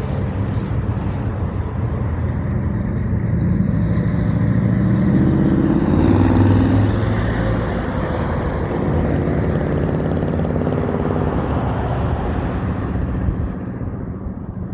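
Big truck engine running loud, its pitch and loudness climbing to a peak about six seconds in, then holding steady and easing off near the end.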